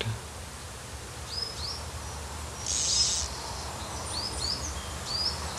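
Small birds chirping outdoors: short, high, hooked chirps scattered through, with a brief high hiss a little under three seconds in, over a steady low hum.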